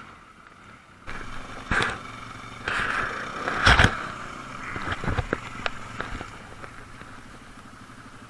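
Quad bike engine running at low revs, starting about a second in. Several sudden knocks and rushes of noise come over it, the loudest a little under four seconds in.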